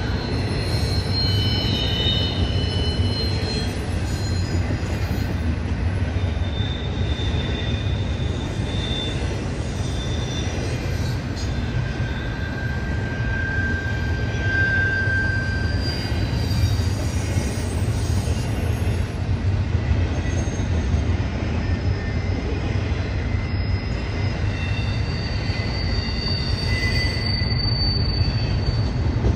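Norfolk Southern freight train rolling past: a steady low rumble of the cars, with high thin wheel squeals that come and go.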